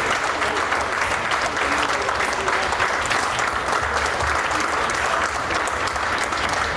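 Crowd applauding steadily, dense clapping.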